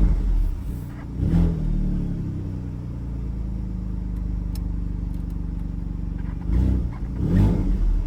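Alfa Romeo Stelvio Quadrifoglio's twin-turbo V6 in Race mode, given short throttle blips: two quick revs at the start and two more near the end, settling back to a steady idle in between.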